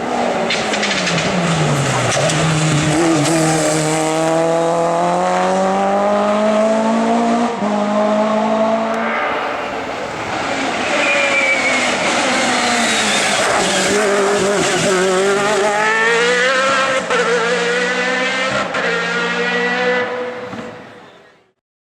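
Racing car engine at high revs, the pitch climbing and dropping again and again through gear changes and lifts off the throttle. The sound fades out near the end.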